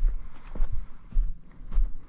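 Footsteps walking at a steady pace, about two deep thuds a second, with a faint steady high hum behind them.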